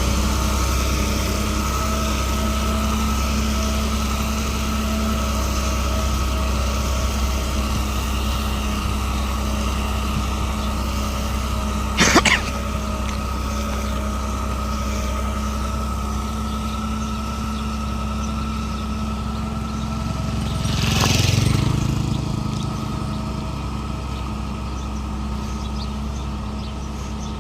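Isuzu FTR 240 truck's diesel engine running steadily. There is a sharp click about twelve seconds in, and a brief swell of rushing noise about three quarters of the way through.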